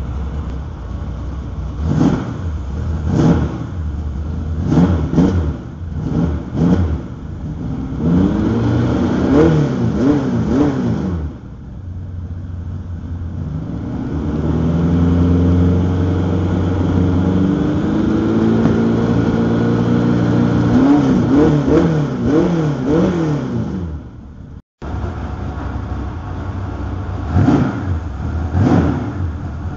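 350 V8 with 180-degree headers and Dr. Gas FreqMod mufflers with added resonators, idling and revved in repeated quick throttle blips, with a longer held rise in revs about halfway through. This is its first run after the exhaust change, before the self-learning computer has re-adjusted the fuel mixture.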